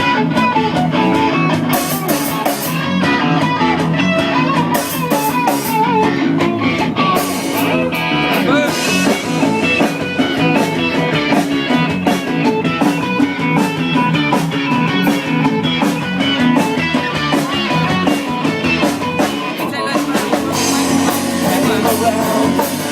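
Rock band playing an instrumental stretch of a song, with guitars and drum kit and no vocals.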